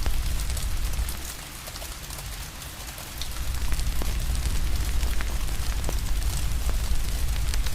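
Steady rain hiss with scattered sharp crackles and pops from a wood fire, over a deep low rumble that fades out about a second in and comes back around three seconds.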